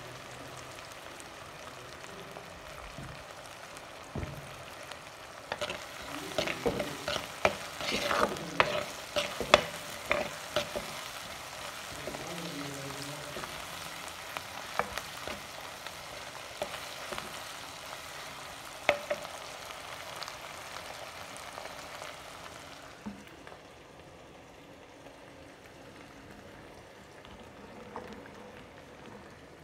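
Onion, tomato and curry leaves sizzling in hot oil while a plastic spatula stirs them, knocking and scraping against the pan in a busy run of strokes between about 6 and 11 seconds in, with a few single scrapes later. Near the end the sizzle gives way to a quieter sound of wet turkey berries being handled in water.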